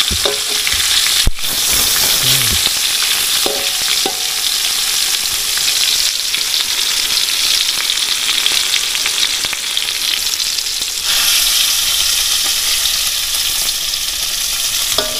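Fish frying in a little oil, sizzling steadily, with a single sharp click about a second in.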